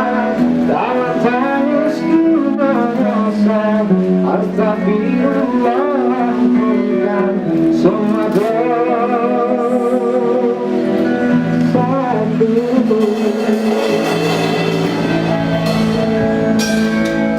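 Live band music: a singer's melody, with vibrato on held notes, over guitar accompaniment.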